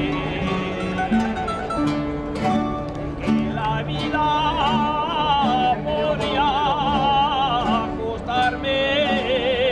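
Folk ronda group performing a song: guitars and other plucked strings keep a steady accompaniment while a melody with a wavering vibrato is carried above it.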